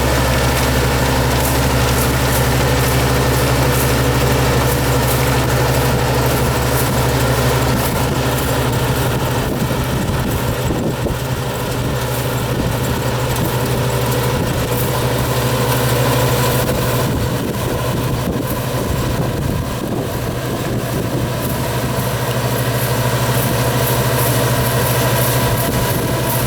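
Engine of a Yanmar farm machine running steadily in the field, a continuous low hum whose deepest note drops away about seven seconds in.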